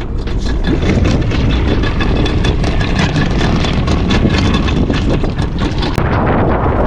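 A boat's engine running steadily, with rapid clicking and a few steady high tones over it for most of the time.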